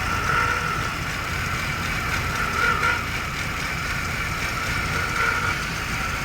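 2002 Jaguar X-Type 3.0 V6 engine running, with a steady low rumble and a high thin tone over it that swells and fades about every two and a half seconds. The noise is unidentified, and a new ribbed accessory belt and pulley rollers have not changed it.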